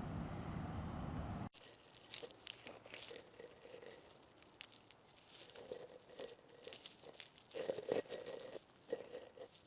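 A steady low rumble that cuts off suddenly about a second and a half in, followed by irregular crunching steps on a trail.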